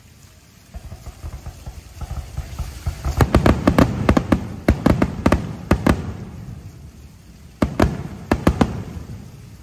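Fireworks going off: a low rumble with crackling starts about a second in, builds into a rapid run of sharp bangs, and a few more bangs follow near the end before it fades.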